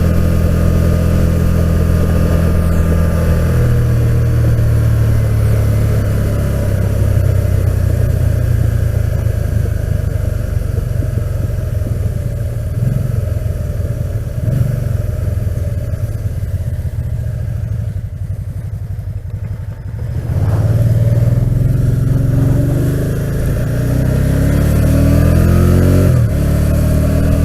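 Can-Am Spyder RT riding along, its engine droning under a rush of wind, heard through a helmet boom mic. The engine eases off past the middle, then picks up and climbs in pitch in steps as it accelerates, dropping back once near the end as it shifts.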